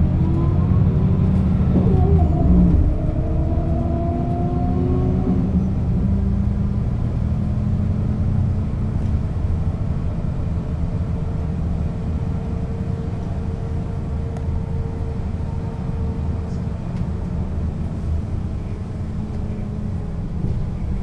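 1996 Setra S 315 UL bus with a ZF gearbox, its engine pulling away and accelerating, the pitch rising in steps over the first six seconds. It then settles into a steady drone with a faint whine as it cruises.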